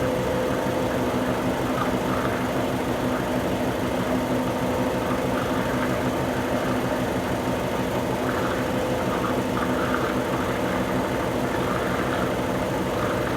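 Consul Super Cargo 8 kg (CWL08C) top-load washing machine in its spin cycle with a load of towels: a steady motor hum and drum vibration at constant speed. The tub is vibrating but sitting level, and the spin runs quietly.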